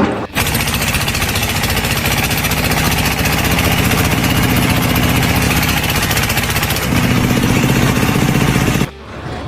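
An engine running steadily. It starts and stops abruptly, and its pitch shifts about seven seconds in.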